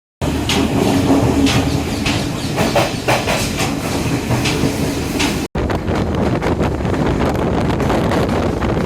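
Diesel multiple unit passenger train running at speed, with a steady rumble and wheels clicking over rail joints. The sound cuts out for an instant a little past halfway, after which a rushing noise is stronger.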